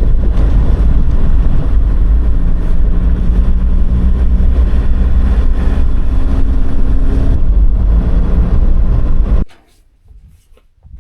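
Land Rover Defender driving, a loud steady rumble of engine and road noise heavy in the low end, with a faint engine note that shifts pitch a couple of times; it cuts off suddenly near the end.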